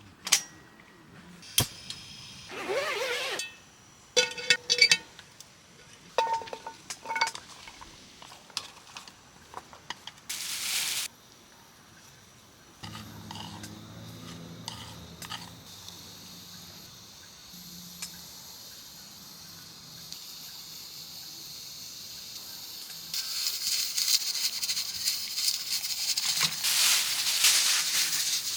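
Cookware and utensils being handled: a series of clinks and knocks, some with a short metallic ring. About three quarters of the way through, a steady crackling hiss starts and grows louder, like food sizzling in a pan.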